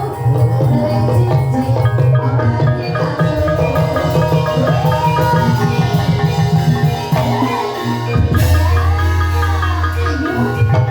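Gamelan music accompanying a Banyumas ebeg dance: mallet-struck pitched percussion and drums over a steady bass, with a high melody gliding slowly up and down. A deep booming low note comes in about eight seconds in.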